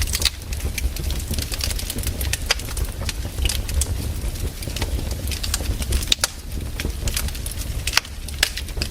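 Firewood burning: irregular sharp crackles and pops over a steady low rumble, with a few louder pops.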